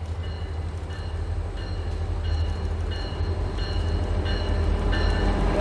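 Railroad grade-crossing bell ringing over and over, with the deep rumble of an approaching diesel freight locomotive growing gradually louder beneath it.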